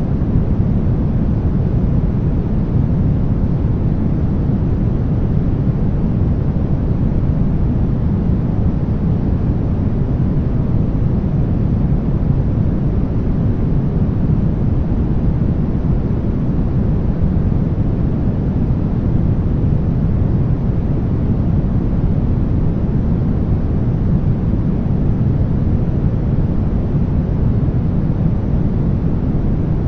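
Synthetic green noise: a steady, even rush with no changes, deep-weighted, with little top end.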